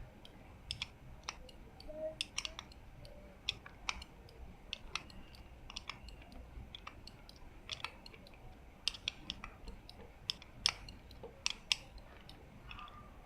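Irregular clicks and taps of a 10 mm spanner working the tight nuts of a motorcycle brake-lever bracket, turning them anti-clockwise to loosen them.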